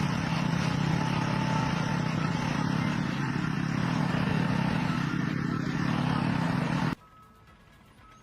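Steady machine noise with a low hum, like an engine running, that cuts off abruptly about seven seconds in, leaving a quiet gap.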